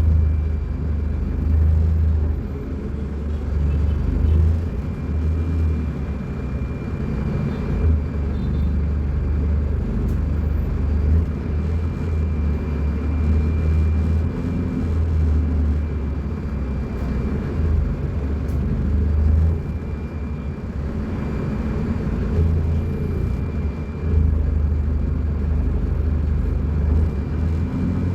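Diesel engine of a Scania K250UB bus running, a continuous low rumble that swells and eases in level.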